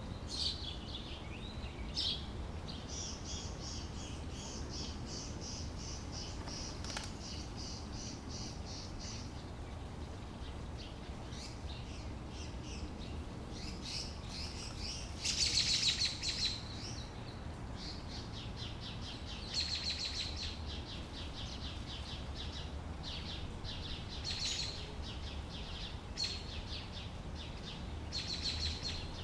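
Birds chirping and trilling in rapid high-pitched runs of notes, with the loudest burst about halfway through, over a steady low background rumble.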